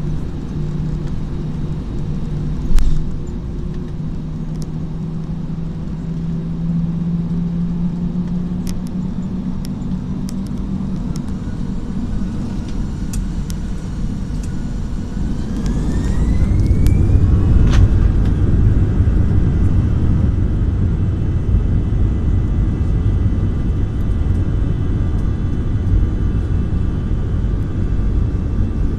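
Jet airliner heard from inside the cabin: a steady engine hum with a single sharp knock about three seconds in, then past the halfway mark the engines spool up with a rising whine and the sound swells into a louder low rumble, typical of the start of the takeoff roll.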